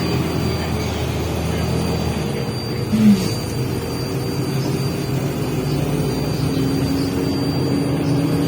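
Cabin noise of a MAZ-105 articulated diesel city bus under way: a steady engine and drivetrain hum with a few held low tones that shift slightly in pitch. There is a short, loud squeak about three seconds in.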